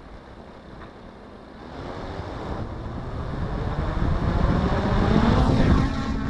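DJI F450 Flamewheel quadcopter's brushless motors and propellers spinning up, heard through the action camera on the frame: a rush of prop wash and wind on the microphone that grows steadily louder, then settles into a steady motor hum near the end.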